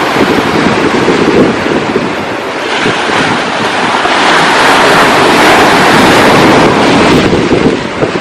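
Ocean surf with wind buffeting the microphone. A wave breaks and washes in, building about a third of the way in and easing off near the end.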